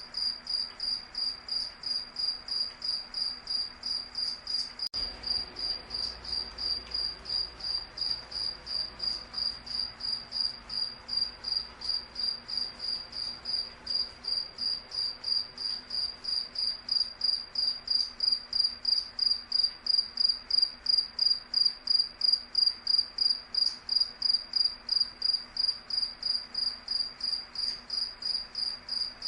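A cricket chirping steadily in a high, even rhythm of about three chirps a second. The chirps grow somewhat louder about halfway through.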